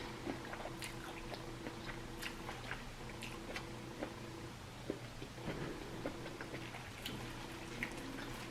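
Close-miked eating sounds: chewing with scattered short smacks and clicks of the mouth, over a steady low hum.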